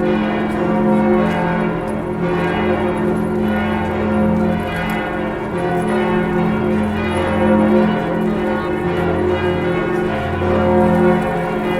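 Several large church bells of Notre-Dame cathedral pealing together, their strokes overlapping into one continuous ring with a deep sustained hum beneath.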